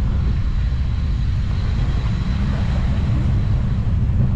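Car engines idling, a steady low rumble.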